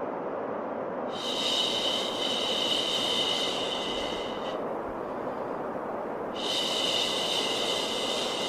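A long, hissing 'shhh' shushing sound played twice, each lasting about three and a half seconds, over steady white noise used to soothe a baby.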